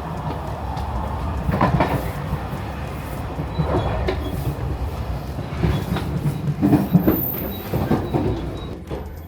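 A train running on rails: a steady low rumble with irregular knocks from the wheels, heavier clusters about a third of the way in and again in the second half.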